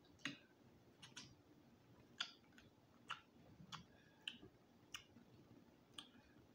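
Faint, uneven mouth clicks and smacks of someone chewing food with the mouth closed, about one every half second to a second.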